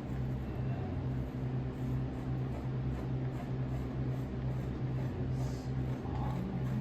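A steady low machine hum with an even background hiss.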